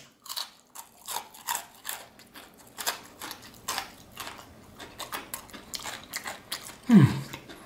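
Chewing an extra-crispy fried chicken wing: a run of irregular crisp crunches and crackles. Near the end comes a short voiced 'mm' that falls in pitch.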